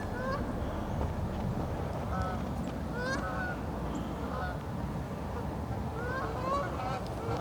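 A flock of geese flying overhead, honking in short bunches of calls several times.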